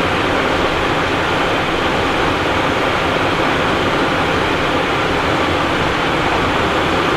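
Steady rushing cockpit noise of a Cessna Citation Encore business jet in flight: a constant blend of airflow and engine noise with no changes.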